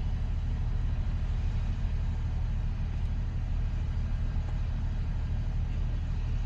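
Scania truck's diesel engine idling with a steady low hum.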